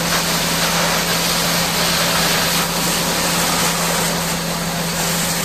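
High-pressure water jet hissing steadily as it sprays heavy equipment during washing, over a steady engine hum.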